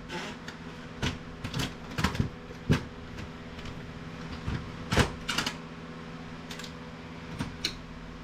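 Irregular clicks and knocks of hard plastic printer parts being handled during a teardown, about eight in all, over a steady low hum.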